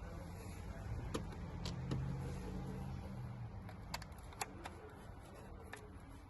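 Scattered small clicks and taps from tools and small plastic and metal parts being handled while a steering-wheel cruise control switch is unscrewed and freed, with about half a dozen separate clicks over a low steady hum.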